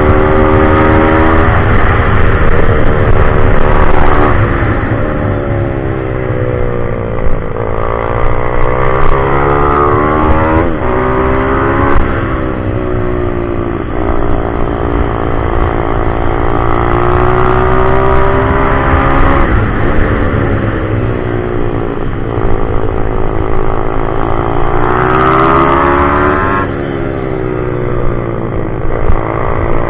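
Pit bike's single-cylinder four-stroke engine revving hard and easing off again and again as it laps the track, the pitch climbing and then dropping suddenly several times, with low wind rumble underneath.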